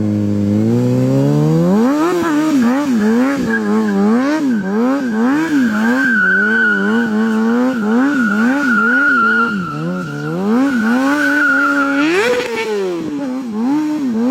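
Motorcycle engine revved hard, its pitch swinging up and down about twice a second, with a steady high tyre squeal from about six seconds in. Near the end there is a sudden sharp rev upward.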